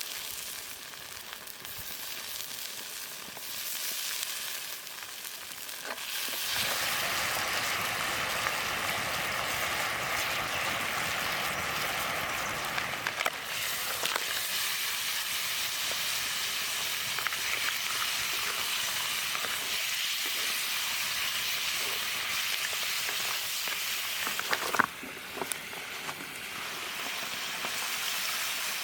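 Food frying in a pan with a steady sizzle that gets louder about six seconds in, broken by a few sharp knocks.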